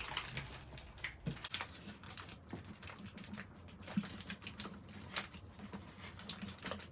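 Hands working with adhesive tape and basket items: a run of small, irregular clicks, taps and crinkles.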